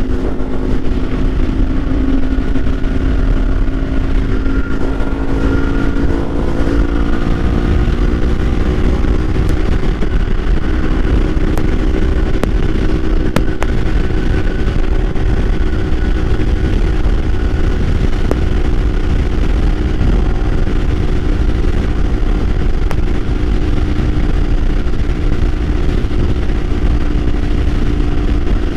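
Kawasaki Ninja 500's parallel-twin engine running at a steady cruise, its pitch creeping up slightly over the first several seconds and then holding, with heavy wind rumble on the microphone.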